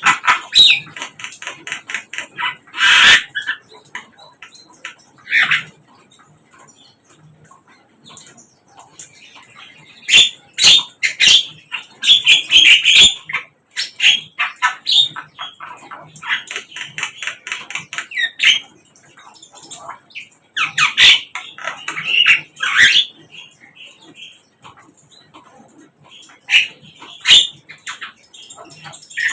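Sikatan londo, a flycatcher, singing in repeated bursts of rapid chattering notes, with sharp clicks between phrases.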